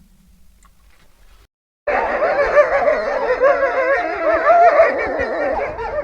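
The fading end of a low wolf howl, a brief silence, then about two seconds in a wolf pack starts a chorus of many overlapping, wavering howls and yips.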